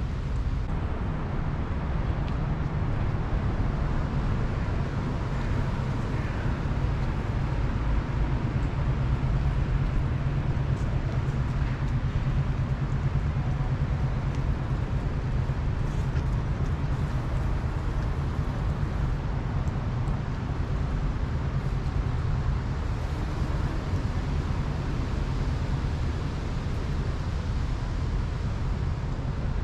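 Steady low rumble of road traffic in an outdoor ambience, with no single event standing out.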